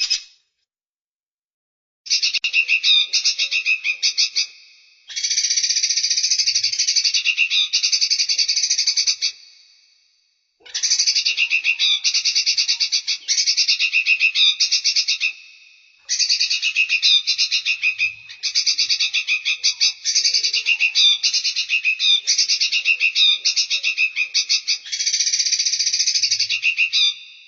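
Small songbird calling in rapid, high-pitched chattering trills, repeated in phrases of a few seconds with short pauses between them, starting about two seconds in.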